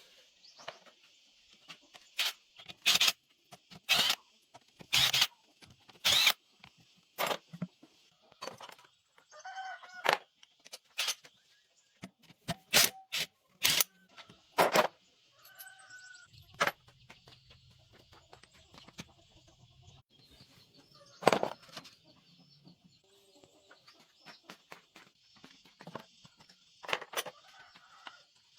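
Irregular sharp knocks and taps, loudest and most frequent in the first half, with chickens clucking now and then over a steady high-pitched hiss.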